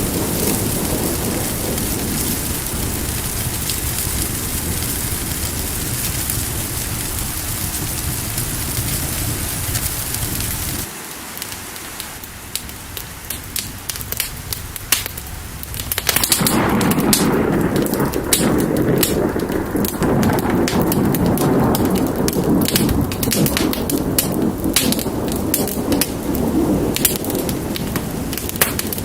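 Steady rain with a low rumble of thunder, layered with the crackle of a wood fire. About eleven seconds in the rain and rumble cut out abruptly, leaving mostly sharp fire crackles, then return loud about five seconds later with the crackling over them.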